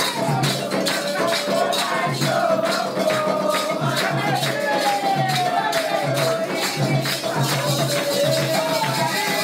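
Candomblé ritual music: drums and shaken rattles keep a fast, steady rhythm while voices sing.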